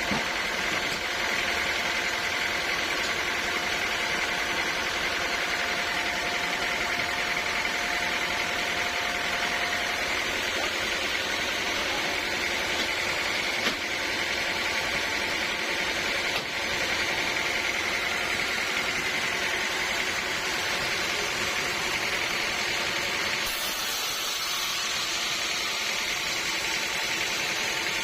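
Sawmill machinery running steadily: a continuous machine drone with a high whine, shifting in tone about three-quarters of the way through.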